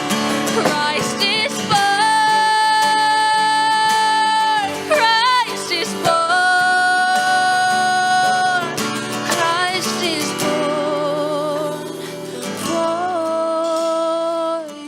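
Worship song: a female voice holds long notes, with short runs and wavers between them, over strummed acoustic guitar.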